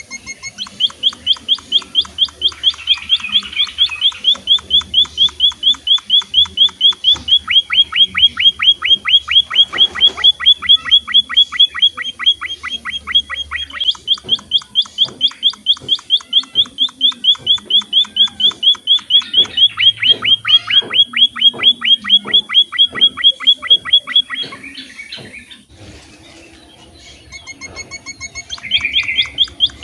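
Munia (emprit) singing: a long run of rapid, evenly repeated high chirps that breaks off briefly about halfway and pauses again near the end before starting up once more.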